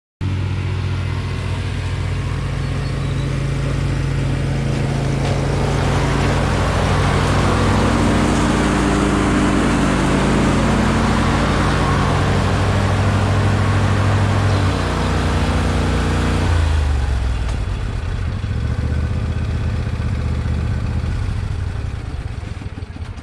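Small tractor engine running steadily. About two-thirds of the way through its note drops to a lower speed, and it fades near the end.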